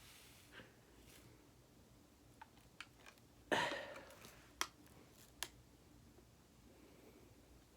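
Faint sharp clicks and taps from handling a plastic shaker cup and drink powder, with one louder short noisy rush about three and a half seconds in that fades over under a second.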